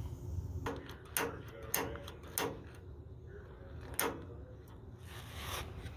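Sharp clicks, five over about four seconds, from the gas water heater's igniter being pressed to light it, then a short rush of noise near the end.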